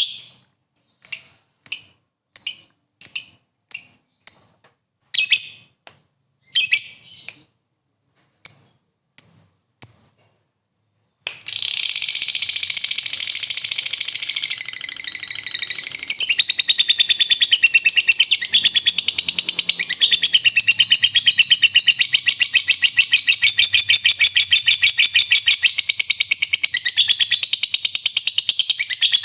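Lovebird calling: a string of short, sharp, high chirps with gaps between them, then, about eleven seconds in, a long unbroken rapid chattering trill, the 'ngekek panjang' that fanciers prize in fighter lovebirds.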